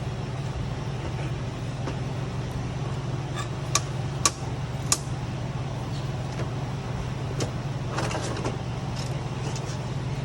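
A few sharp clicks and taps of tools and parts being handled on the pump motor, three close together around four to five seconds in and a short patter near the end, over a steady low background hum.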